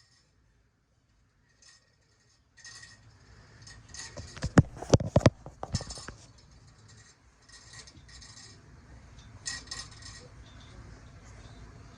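Handling noise from cardboard model-making: a cluster of sharp clicks and taps a little after halfway through the first half, then scattered rustling, scraping and lighter clicks.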